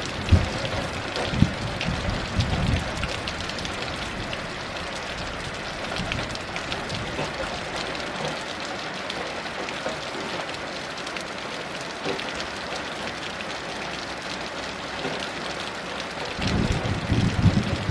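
Heavy rain falling steadily as an even hiss. Low thunder rumbles sound in the first few seconds and again near the end.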